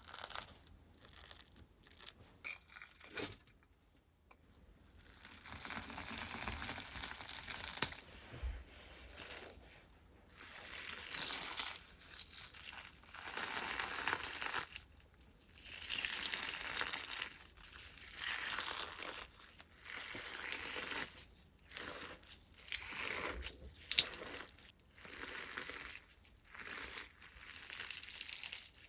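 Slime being squished and pressed by hand in repeated strokes of a second or two each, with a crackly, crinkling texture. Two sharp pops stand out as the loudest sounds, one about a quarter of the way in and one later on.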